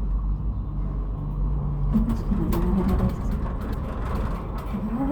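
Cable car cabin running with a steady low rumble, clicking and clattering from about two seconds in as it comes into the station.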